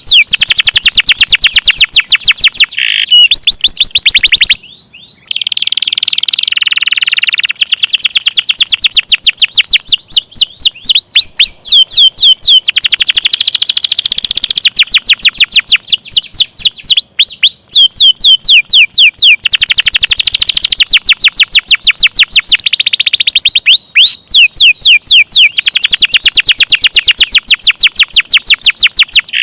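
Domestic canary singing loudly in long rolls: fast trills of rapidly repeated short, falling chirps, with a brief pause about four and a half seconds in.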